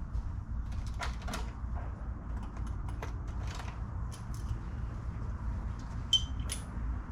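Hand tools on the carburetor's mounting nuts: scattered metal clicks and scrapes, with one sharp, ringing metal clink about six seconds in, over a steady low rumble.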